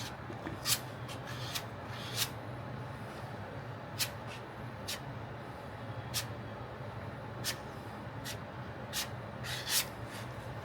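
Plastic spreader scraping and working body filler: short, sharp scrapes at uneven intervals, roughly once a second, over a steady low hum.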